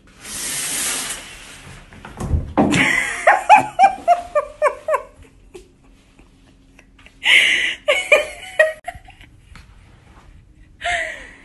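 A brief rushing noise and a thud, followed by a person laughing hard in bouts. The laughter stops after a few seconds, comes back about seven seconds in, and returns briefly near the end.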